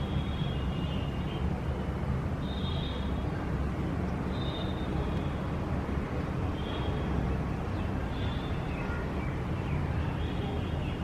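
Outdoor city ambience: a steady low rumble of distant traffic, with small birds giving short high chirps every second or two.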